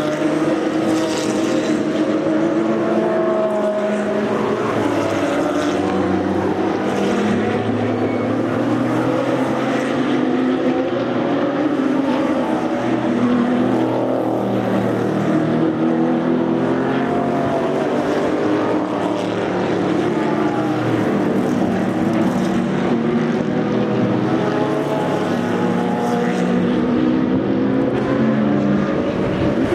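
Race cars with open exhausts going past at racing speed, several engine notes overlapping as they rev up and drop through gear changes.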